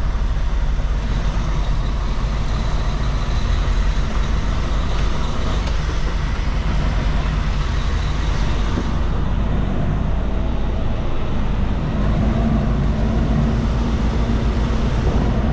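Heavy truck's diesel engine running at low speed, heard from inside the cab while the road train is slowly manoeuvred, with a change in the engine note about twelve seconds in.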